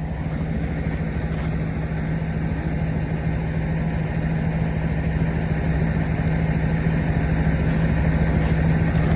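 Diesel semi-truck engine idling steadily, its low hum growing slightly louder.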